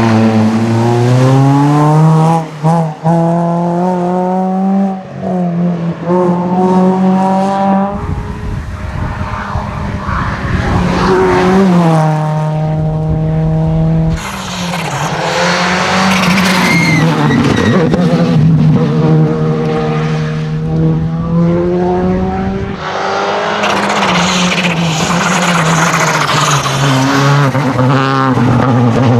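Rally cars at full throttle on a stage, engines revving up hard and dropping back repeatedly through the gear changes, with stretches of loud rushing tyre and gravel noise.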